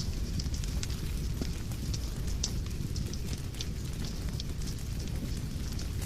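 Fireplace fire crackling: irregular sharp crackles and pops, several a second, over a steady low rumble.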